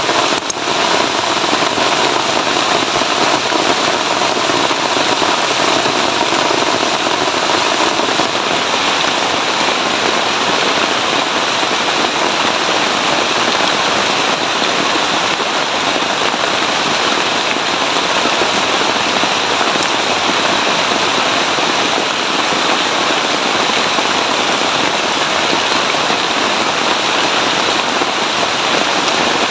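Heavy rain falling steadily, a dense unbroken hiss, with a single sharp knock about half a second in.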